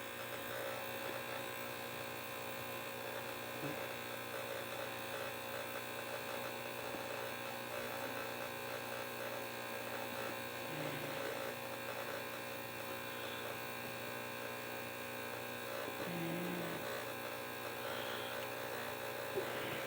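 Steady electrical hum at a low level, with a few faint small taps and clicks from handling at the bench.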